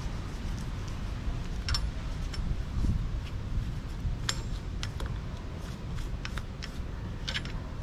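Scattered light metallic clinks and taps, a few of them ringing briefly, over a steady low rumble.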